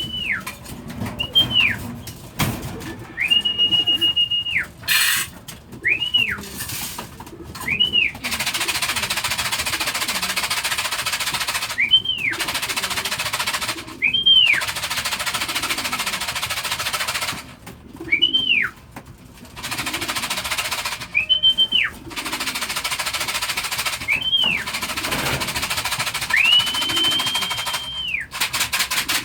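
A person whistling short calls over and over, each note sliding up and back down, with a couple held longer, as a fancier whistles racing pigeons in to trap. From about eight seconds in, a steady rushing noise runs underneath.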